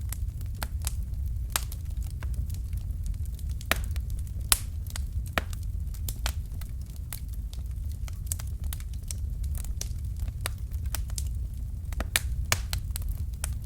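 Fire crackling in a fireplace: irregular sharp pops and snaps over a steady low rumble of the flames, with one louder pop about four and a half seconds in.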